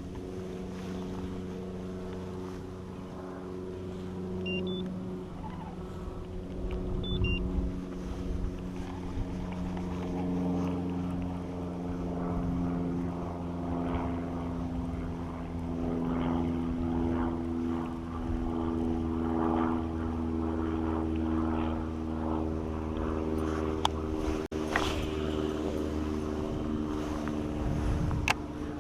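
A steady engine drone, several pitched tones held together that drift slowly in pitch, with a few faint clicks late on.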